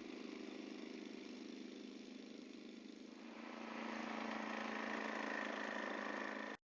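Steady engine noise that grows louder about three and a half seconds in, then cuts off suddenly near the end.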